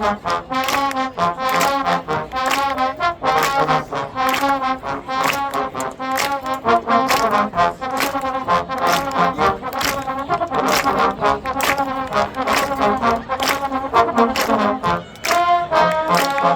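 Trombone section playing an upbeat tune in short, punchy notes.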